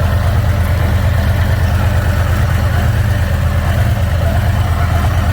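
Harley-Davidson Freewheeler's V-twin engine idling steadily while it is checked for oil leaks around the freshly filled primary cover.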